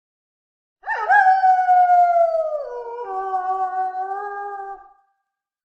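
Wolf howling: one long call that slides slowly down in pitch, steps down to a lower note part way through, and holds there before fading out.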